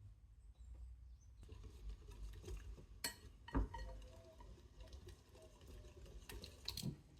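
Light clicks and knocks of small household objects being handled, with the loudest knock about three and a half seconds in and a quick run of clicks near the end.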